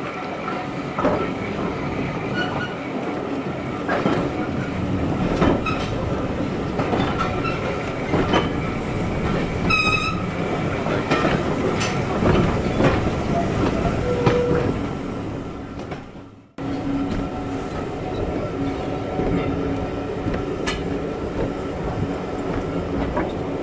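Vintage wooden railway coach running slowly behind a steam locomotive on jointed track: steady rumble and rattle, with the wheels clicking over rail joints about every second and a half. A brief high-pitched note comes about ten seconds in, and the sound drops out for a moment about two-thirds of the way through.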